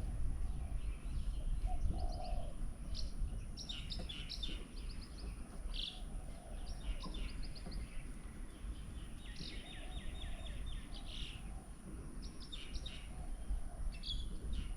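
Several small birds chirping and calling around a garden bird table, with short chirps throughout and a rapid trill of repeated notes about nine to eleven seconds in, over a steady low rumble.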